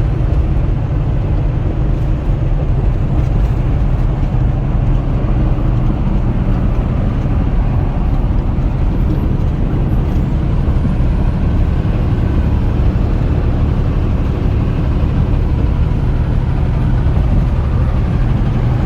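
Steady engine and road noise heard inside the cab of a moving vehicle, a low, even drone.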